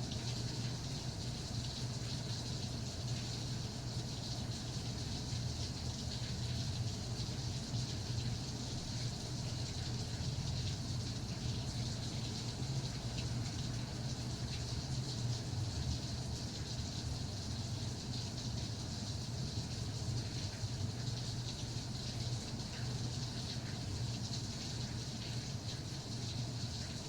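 Steady rainfall: an even hiss of falling rain with a low rumble underneath, unchanging throughout.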